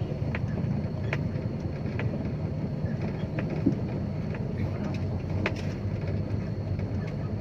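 Dump truck's engine running steadily on the move, a continuous low rumble with scattered light clicks from the truck.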